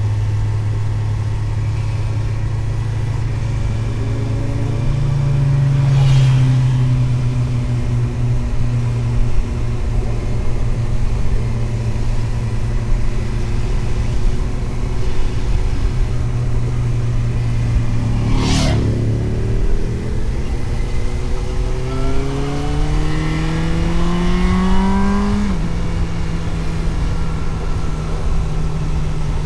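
Suzuki GSX-S750 inline-four motorcycle engine running under way, heard from on board. The revs climb steadily for several seconds from a little past halfway, then fall sharply at an upshift, with a couple of sharp clicks along the way.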